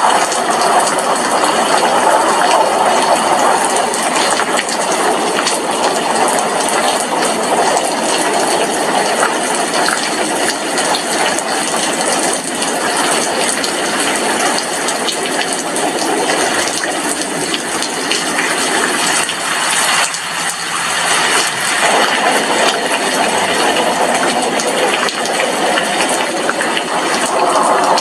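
Heavy rain falling steadily against a glass window, a dense, even hiss of drops with no distinct thunder.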